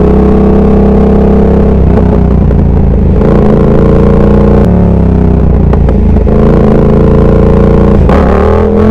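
Yamaha R7 sport bike's parallel-twin engine running at a steady low speed, its pitch shifting a couple of times with the throttle.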